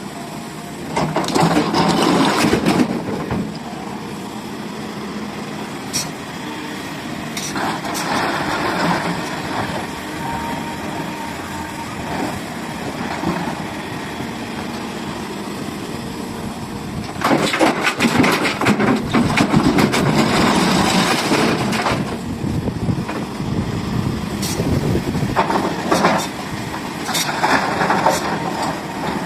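SDLG excavator's diesel engine running, rising in several stretches as the hydraulics work under load, with a few sharp knocks between.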